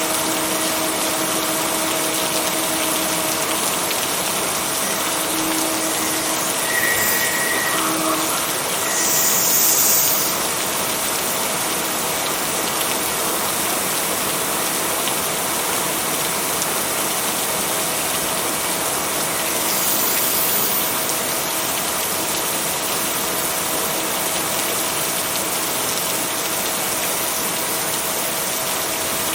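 Steady hiss of heavy rainfall with a faint steady hum underneath. The rain swells briefly about nine seconds in and again around twenty seconds.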